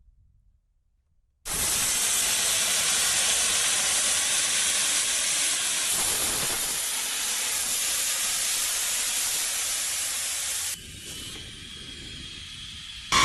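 B-52H Stratofortress jet engines running: a loud, steady rushing hiss that cuts in after about a second and a half of near silence. Near the end it drops to a quieter run with a faint high whine.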